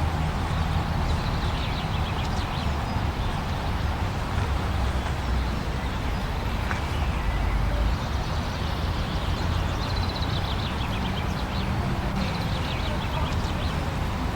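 Steady blizzard wind: an even rushing noise over a low rumble, with faint high squeaks now and then.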